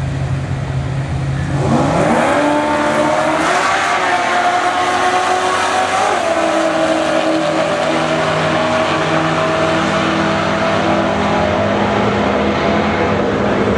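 Drag-racing pickup trucks' V8 engines idling at the line, then launching at full throttle about a second and a half in. The engine note climbs sharply and steps through gear changes, then holds at high revs and slowly fades as the trucks pull away down the strip.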